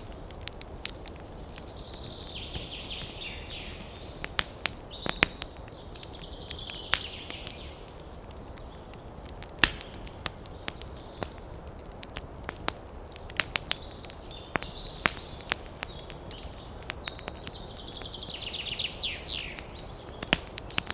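Wood campfire crackling, with sharp irregular pops and snaps over a low steady hiss. A high chattering animal call comes and goes four times, the last one sweeping downward near the end.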